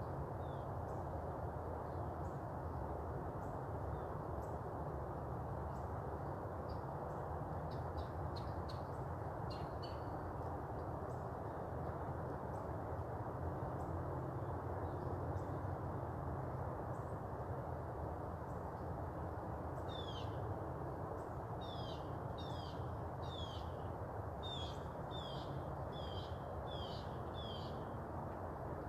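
A bird calling a series of about ten short, sharp falling notes in the second half, over steady outdoor background noise, with a few faint chirps earlier.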